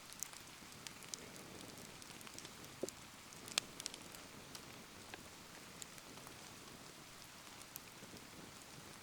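Steady rain falling around a wood bonfire, with the fire crackling in scattered sharp pops; the loudest pop comes about three and a half seconds in.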